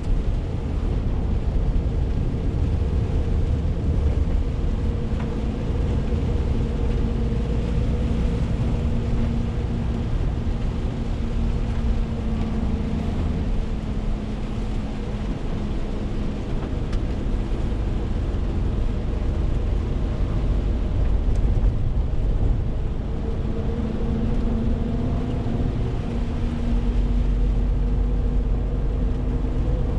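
Renault T520 truck's 13-litre six-cylinder diesel running steadily under way, with a continuous low rumble of engine and road noise; the engine tone rises slightly in the last few seconds.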